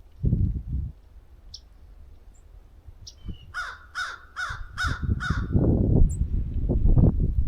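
A crow cawing five times in quick succession, about three caws a second. A loud low rumble of wind buffeting the microphone comes in gusts at the start and through the second half.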